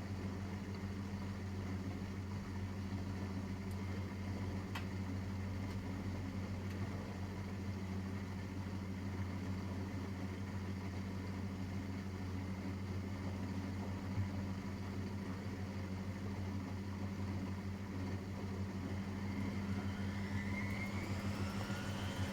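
Miele Professional WS5436 washing machine running mid-wash with a steady low hum; near the end a motor whine rises in pitch.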